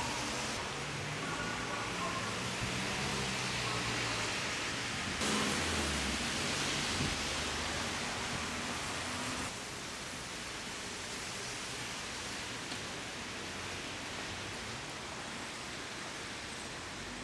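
Steady hiss of background noise, with faint low tones in the first few seconds; the noise changes abruptly about five and nine and a half seconds in.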